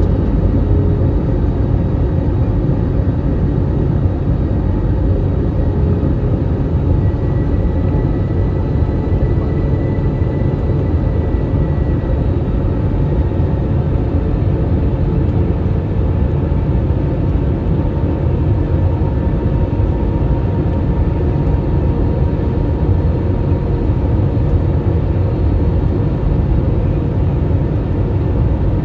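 Airbus A320 airliner's jet engines on approach to land: a steady low rumble with faint whining tones that drift slowly in pitch.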